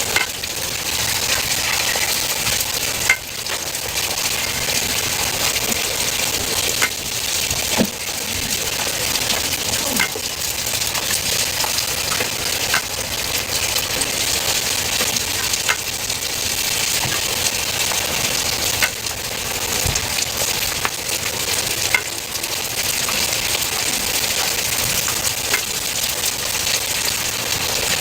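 Food frying and sizzling steadily in hot oil, with occasional sharp clicks and taps of a cooking utensil against the pan.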